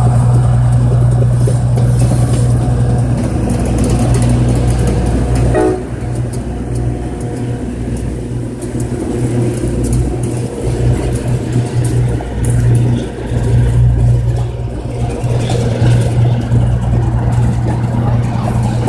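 White Pass & Yukon Route train coming in slowly: a steady low drone from the diesel locomotives, then the rumble of the passenger coaches rolling past, as the train slows to a stop. A brief higher tone sounds just before six seconds in.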